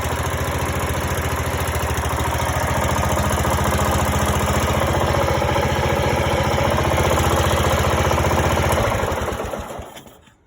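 Briggs & Stratton 17 HP Intek OHV engine on a ride-on mower idling steadily and smoothly at low idle, running again after years of sitting. Near the end it is switched off and runs down to a stop.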